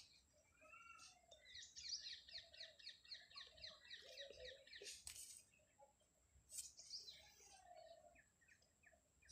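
Faint birdsong: a fast trill of short, falling, high chirps lasting about three seconds, with scattered lower calls around it.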